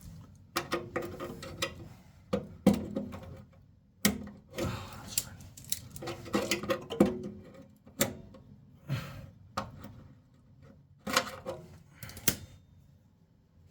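Irregular metal clinks, knocks and scrapes of tools and steel parts being handled during bodywork on a car.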